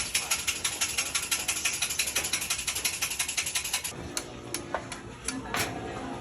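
Fast, even mechanical clicking, about eight clicks a second, like a ratchet or freewheel, stopping about four seconds in; quieter mixed sounds follow, with one sharp click near the end.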